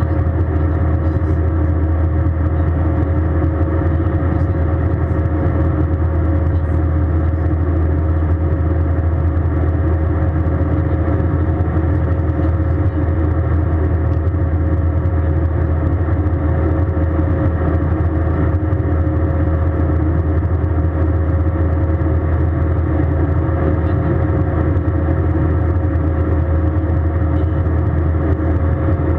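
Airbus A320 passenger-cabin noise: a steady, unchanging drone of the jet engines and airflow, with a low hum and a thin steady whine over it.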